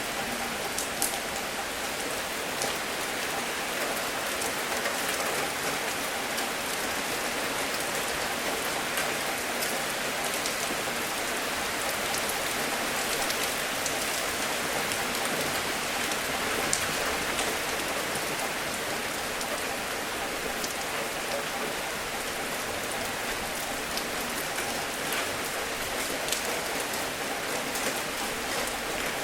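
Steady rain falling, an even hiss of rain with scattered sharp ticks of single drops striking close by.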